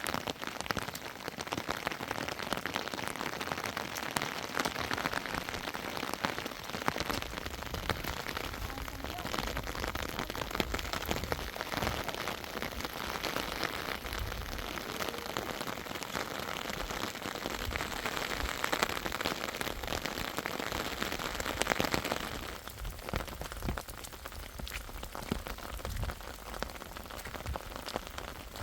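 Heavy rain falling, a dense patter of drops with a low rumble underneath; the rain eases somewhat about two-thirds of the way through.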